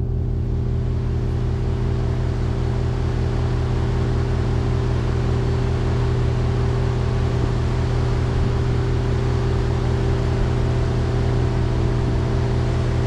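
Diesel train under way: a steady engine drone with a constant rush of wheel and track noise.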